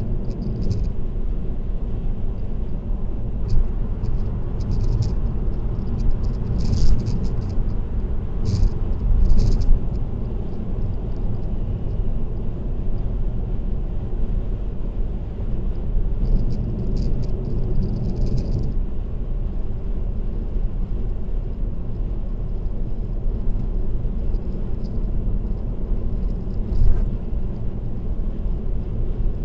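Car's steady road and tyre rumble at expressway speed, with short bursts of light high-pitched rattling in the first third and again a little past halfway.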